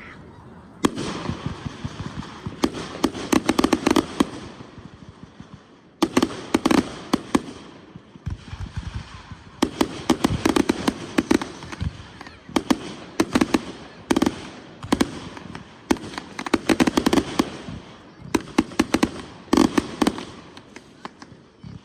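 Consumer fireworks going off in rapid volleys of sharp bangs and crackle, one cluster after another every couple of seconds, with a hiss between the bursts.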